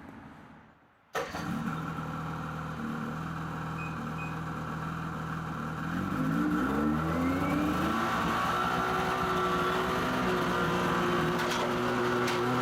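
2016 Ski-Doo MXZ Blizzard snowmobile's 600 H.O. E-TEC two-stroke twin starts abruptly about a second in and runs steadily. Around six seconds in its engine speed rises, then holds steady at the higher speed.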